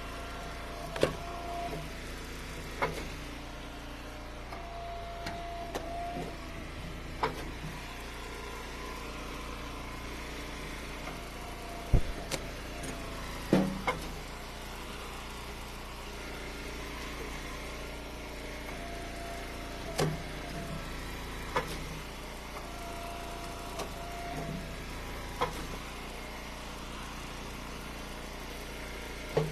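A gas-engine hydraulic wood splitter runs steadily, with a short whine several times as the ram works through ash rounds. Split pieces knock as they are thrown into a pickup bed; the sharpest knock comes about twelve seconds in.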